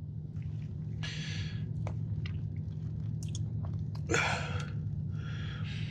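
A person chewing a mouthful of cookies and cream cheesecake, with soft mouth clicks and a few short hissing bursts, over a steady low hum.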